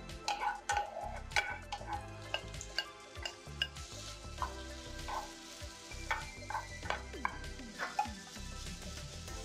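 Wooden spatula stirring and clicking against a ceramic frying pan as garlic, then onion and bacon, fry in oil with a sizzle. The sizzle grows stronger about four seconds in.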